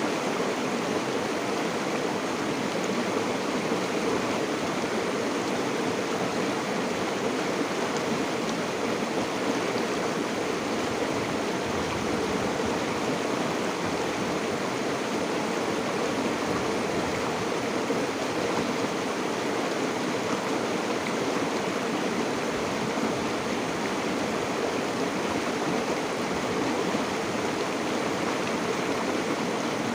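River water flowing over stones, a steady rushing and babbling.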